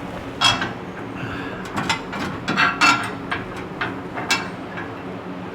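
Irregular metallic clinks and knocks of tools and metal parts being handled, about half a dozen sharp strikes spread across a few seconds, over a faint steady hum.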